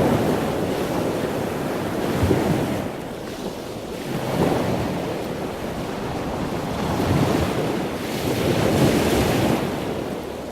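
Sea and wind aboard a sailing yacht: rushing waves and water along the hull with wind buffeting the microphone, swelling and easing in surges every two seconds or so.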